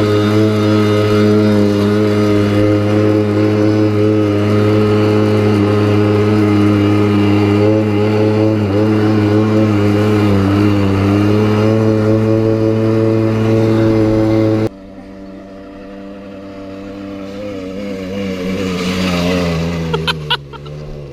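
Small 40 cc two-stroke pit bike engine (Malaguti) running at a steady, unchanging pitch. About two-thirds through it cuts abruptly to a quieter engine sound whose pitch wavers and slowly builds. Near the end come a few sharp clicks as the pitch drops.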